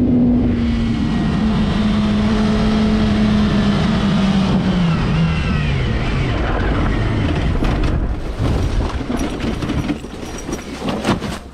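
Motorcycle engine heard over loud road and wind noise, its pitch falling steadily for several seconds as the bike slows. Near the end there are quieter scattered knocks and rattles.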